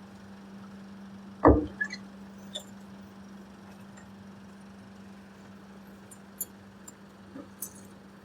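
A steady low hum with one loud knock about a second and a half in, followed by a few light clicks and clinks.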